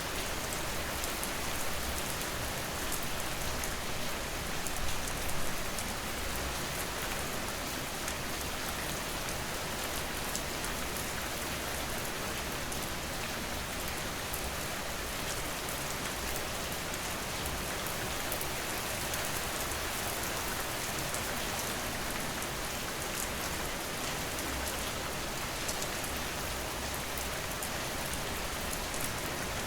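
Steady rain pattering on surfaces: a dense, even hiss of drops with faint individual drop ticks and a low rumble underneath, swelling slightly a few seconds in.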